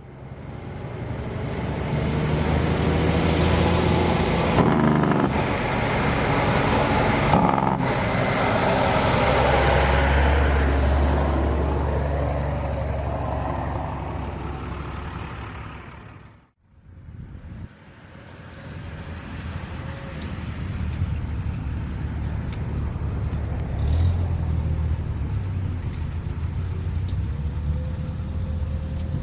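A truck engine running as it goes by, swelling and then fading, then after an abrupt cut about halfway through, another truck engine running steadily.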